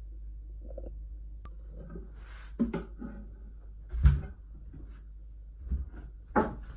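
A few short knocks and clatters of objects being handled, four of them louder, with some rustling between, over a steady low hum.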